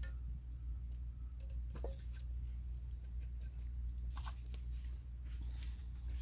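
Wood campfire crackling: sparse, irregular small pops and ticks over a steady low rumble.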